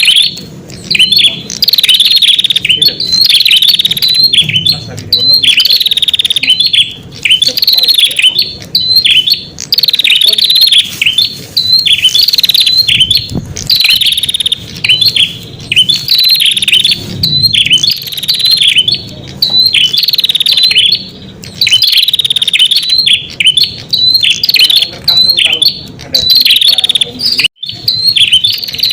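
Prenjak songbird lure call, loud and unbroken: short, sharp, high chirping phrases repeated about once a second, each a quick falling note.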